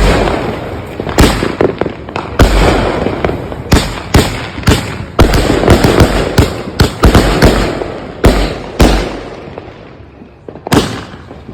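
Consumer aerial fireworks going off: a rapid, irregular string of loud bangs with crackling between them, thinning out and fading about two thirds of the way through, then a few more bangs near the end.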